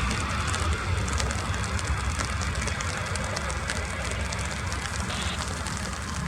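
Rain pattering and crackling close to the microphone over a low rumble of jet aircraft engines that slowly fades away.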